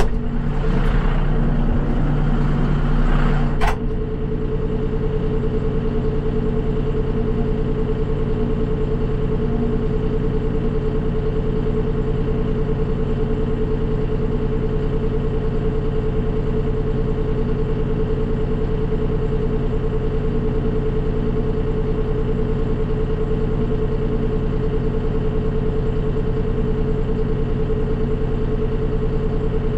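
Tractor engine running steadily. The first few seconds are noisier, with a hiss across the highs that stops abruptly about four seconds in.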